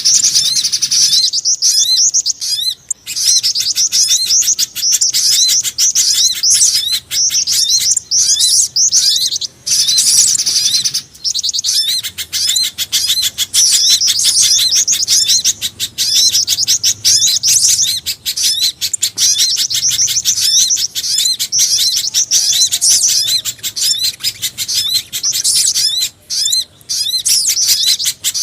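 Bird-lure recording of small forest birds' calls, mixing spiderhunter, sogon and jingjing batu songs. It gives a dense stream of rapid, high chirps many times a second, with a few short breaks.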